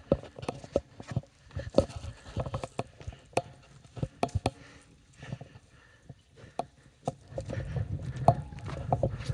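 Irregular footsteps knocking and scuffing over rocky, uneven ground, with a low rumble coming in about two seconds before the end.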